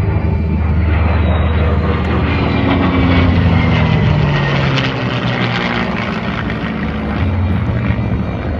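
Aircraft engines of a low fly-by, a loud engine drone whose pitch falls gradually as the aircraft pass.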